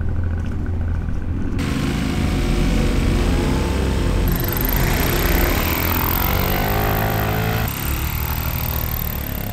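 Off-road motorcycle engine accelerating: its pitch climbs steadily for several seconds, then falls abruptly about three-quarters of the way through.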